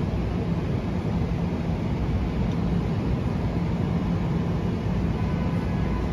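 Metro-North electric train running at the platform, a steady rumble with a low hum, as a train moves off after its doors close.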